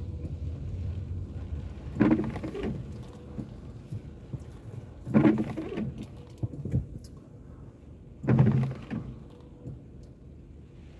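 Car windscreen wipers sweeping across a rain-wet windscreen on an intermittent setting, one sweep about every three seconds, over a steady low rumble of the car on the road.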